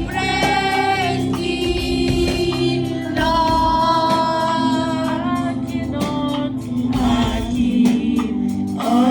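Gospel choir singing, the voices holding long notes over percussion beats.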